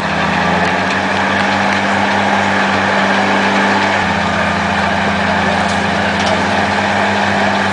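A large vehicle engine running steadily, its note shifting once about four seconds in.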